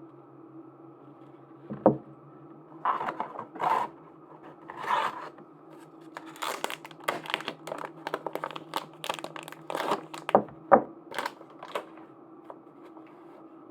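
Plastic packaging being crinkled and torn open by hand, in quick crackling bursts, with a few sharp knocks as something is tapped or set down.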